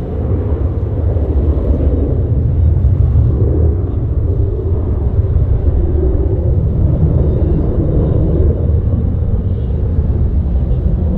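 Jet airliner engines producing a loud, steady, low rumble that comes in abruptly and holds.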